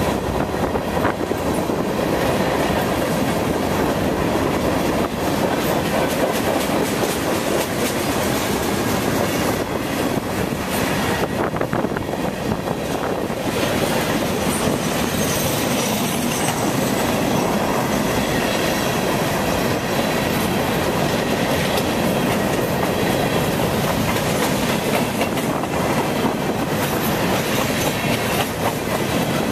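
Cars of a manifest freight train rolling past at close range: a steady, loud rumble with the wheels clattering over the rail joints.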